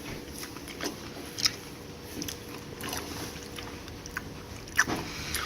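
A person eating: faint chewing with scattered small clicks and taps, a sharper tap about a second and a half in and another near the end.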